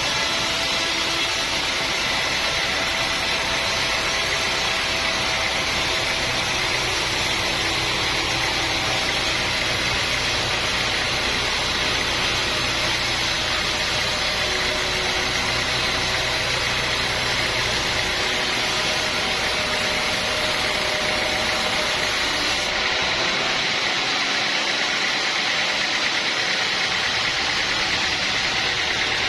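Sawmill machinery running with a steady, loud drone and hiss. Its low hum eases after about eighteen seconds.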